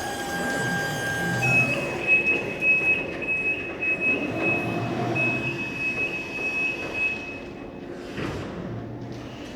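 Electric reach truck running with a motor whine: a rising whine settles into a steady tone, then about a second and a half in a high, thin whine takes over and holds for about six seconds before stopping.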